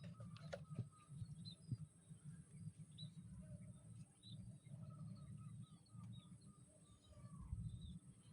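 Faint birds calling and chirping, short notes and a run of repeated calls, over a low steady rumble, with a few soft clicks in the first second.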